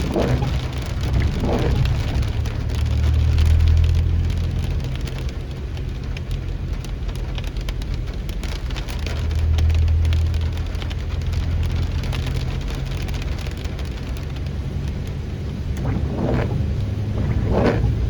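Heavy rain falling, over a steady low vehicle rumble that swells twice.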